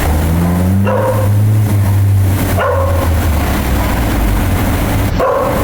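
A dog barking three times, short single barks a couple of seconds apart, over the steady hum of an engine running, which rises briefly near the start.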